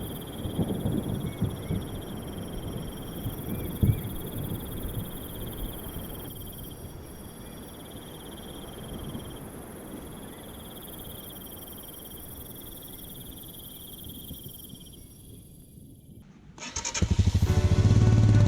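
Insects shrilling in a steady high chorus that swells and drops in long stretches, over a low rumble that slowly fades. About 17 seconds in, loud background music starts.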